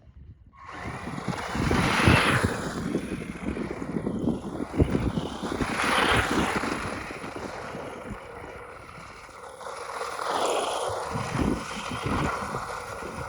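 Electric RC desert buggy driving over rough ground, its noise swelling three times as it comes past, with wind buffeting the microphone.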